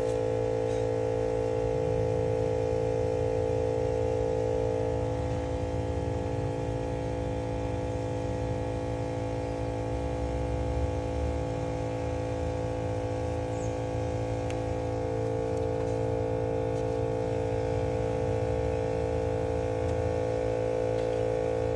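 Air compressor motor running steadily, building pressure for a cooling-system pressure test. It is a constant hum of several fixed tones, and the main tone eases off for a while mid-way before coming back.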